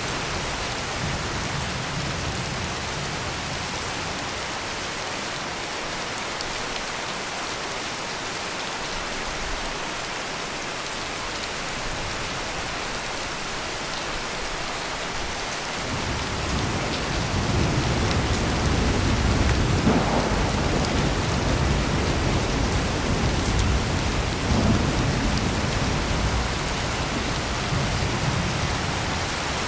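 Heavy rain falling steadily. About halfway through, a long low roll of thunder builds and rumbles on for about ten seconds, swelling twice before it fades.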